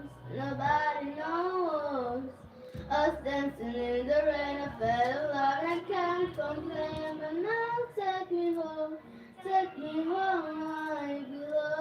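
A high voice singing a slow melody, with long held notes that slide up and down between phrases. A low steady hum sounds under it at the start and again from about three to five seconds in.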